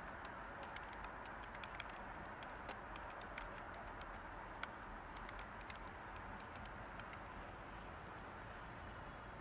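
Light typing on a computer keyboard: scattered keystroke clicks, busier in the first few seconds and sparse after, over a steady hiss of white noise.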